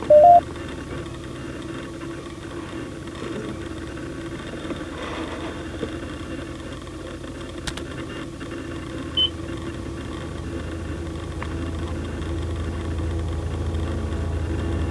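A short two-note electronic beep, then a steady low electrical hum with a faint hiss that swells slightly near the end; a tiny high blip sounds about nine seconds in.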